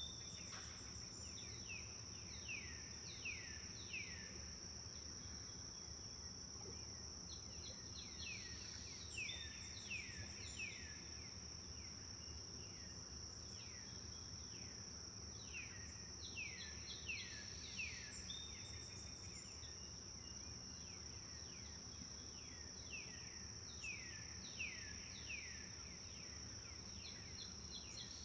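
Forest birds chirping in repeated runs of short, quick downward-sweeping notes over a steady high-pitched drone of insects, like crickets.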